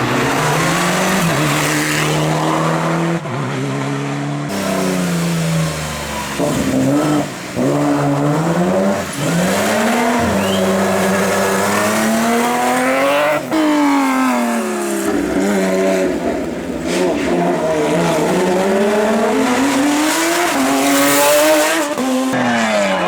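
Race car engine at full throttle, revving up and dropping in pitch over and over as it shifts gears and lifts off through the corners.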